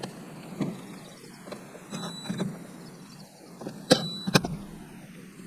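Hands and tools working on a gate opener's control board: a few soft knocks, then two sharp clicks about four seconds in, over low steady background noise.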